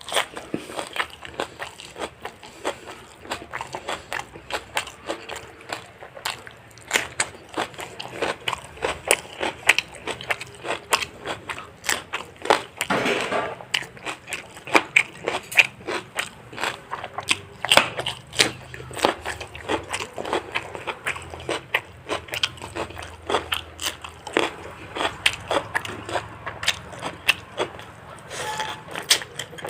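A person chewing and biting into fried chicken, with many quick, irregular mouth clicks and smacks.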